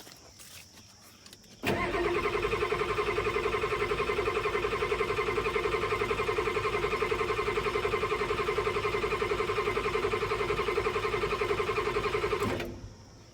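Ford 6.9 IDI diesel V8 cranking over on its starter during a cold start after long sitting: a fast, even chug of compression strokes over a steady starter whine, starting suddenly after a couple of seconds and stopping about eleven seconds later without the engine catching.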